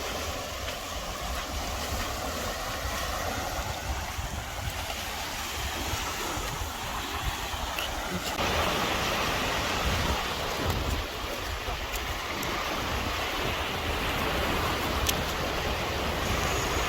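Sea surf washing on a beach, a steady hiss of breaking water that grows brighter about halfway through, with wind buffeting the microphone as a low rumble.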